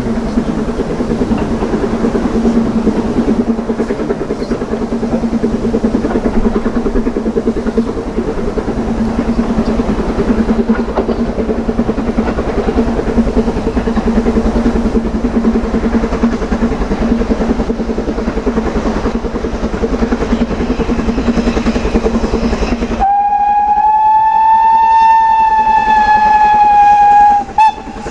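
Steam locomotive and train running past with a steady, rhythmic working sound. About 23 seconds in, the locomotive sounds one long steam whistle blast, a single steady note that rises slightly and falls back, lasting about four and a half seconds.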